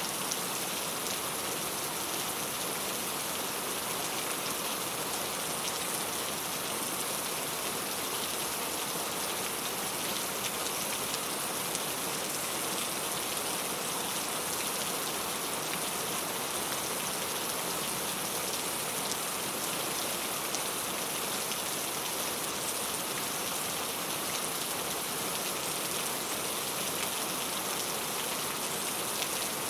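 Steady rain falling on a clay-tile roof, a continuous hiss full of fine drop patters, with no thunder.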